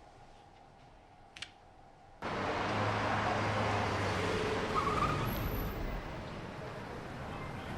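Faint room tone with a single click, then about two seconds in a sudden cut to loud, steady road-traffic noise with a car going by, which settles to a lower steady traffic hum after about six seconds.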